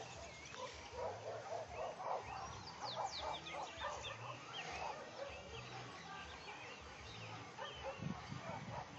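Many birds calling together: quick high chirps and sweeping whistled notes over runs of lower, repeated calls.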